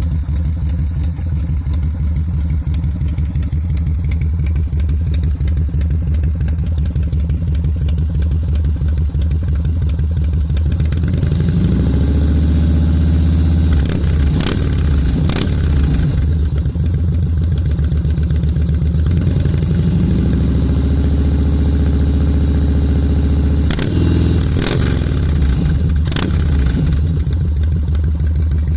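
Yamaha Road Star / Wild Star cruiser's air-cooled V-twin idling with an uneven, loping beat through its exhaust, revved up twice, with a few sharp cracks during the revs.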